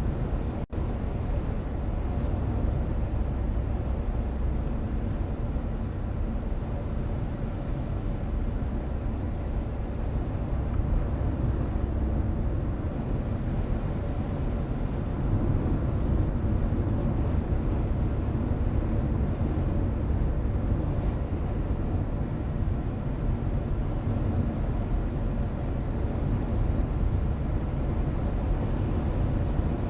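Steady road and engine rumble of a car driving, heard from inside the cabin, with a brief dropout under a second in.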